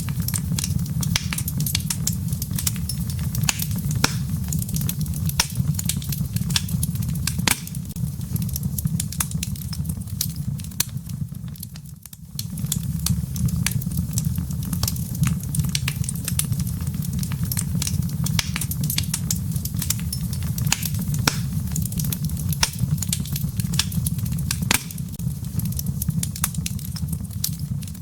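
Wood logs burning in a fireplace: frequent sharp crackles and pops over a steady low rumble of the flames. The sound briefly fades and comes back about twelve seconds in.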